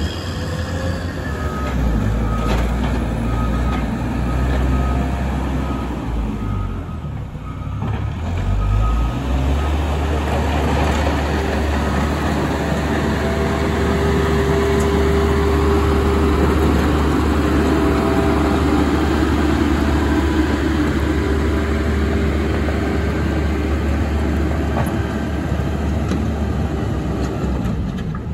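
Caterpillar 120M motor grader's diesel engine running steadily under load, with a repeated beep in the first few seconds of the run.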